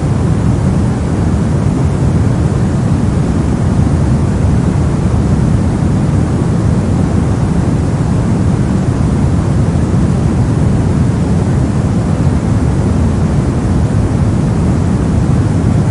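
Brown noise: a steady, deep rushing hiss, strongest in the bass and much weaker in the highs, with no changes.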